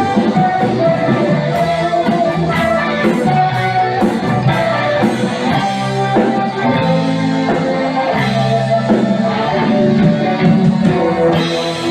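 Rock band playing an instrumental passage with guitars, bass and drums at a steady beat.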